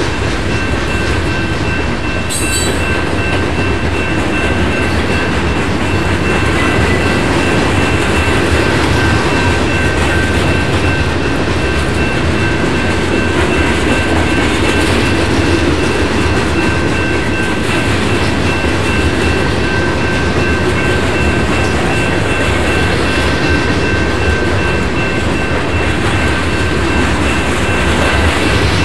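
Freight cars, covered hoppers and a tank car, rolling past close by: a steady loud rumble of steel wheels on rail. A thin, steady high-pitched ring sounds over it throughout.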